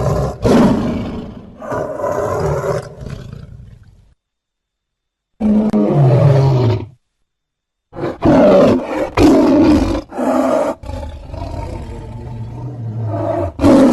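Film sound effects of a sabre-toothed cat (Smilodon): a string of roars and snarls, cut off by two short spells of dead silence. Between the gaps is a single growl that falls in pitch.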